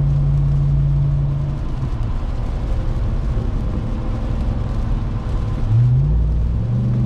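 Supercharged 6.2-litre Hemi V8 of a 2021 Ram 1500 TRX, heard from inside the cab while driving: a steady engine hum that falls away about a second and a half in, then a quick rise in revs near the end before it settles into a steady, higher hum.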